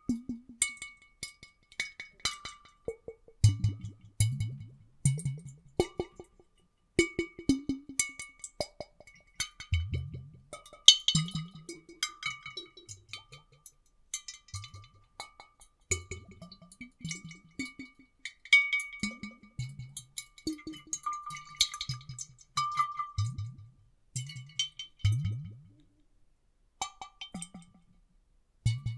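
Water sloshing and glugging in glass bottles, recorded for an underwater effect: irregular hollow plops that drop in pitch, mixed with sharp clicks and a faint glassy ringing. There is a brief lull a few seconds before the end.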